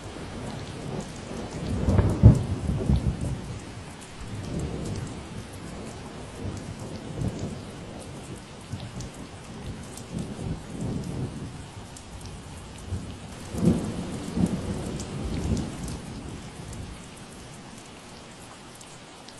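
Steady rain with single drops ticking through it, and thunder rolling low underneath. The thunder is loudest about two seconds in, and rumbles again more weakly around the middle and near fourteen seconds.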